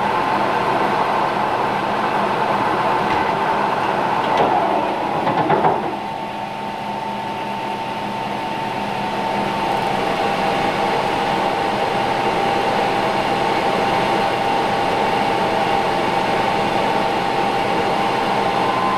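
Metal lathe running, turning steel, with a steady hum and a high whine. About four to six seconds in there is a brief rougher, louder stretch, after which the whine settles a little lower in pitch.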